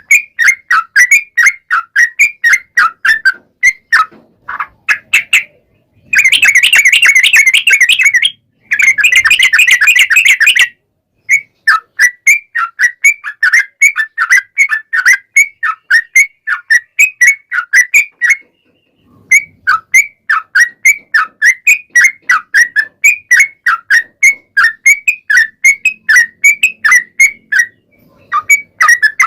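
Yellow-vented bulbul (trucukan) singing a long rapid series of short, sharp, downward-slurred chirps, about three to four a second. Twice, about six and nine seconds in, the song runs together into dense fast runs before returning to separate chirps.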